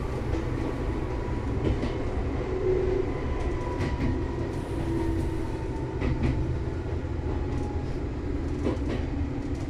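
Electric commuter train running on the Hokuriku Railroad Asanogawa Line, heard from the driver's cab. A steady low rumble of wheels on track carries a faint whine that falls slightly in pitch, and a few sharp clicks sound as the wheels pass rail joints.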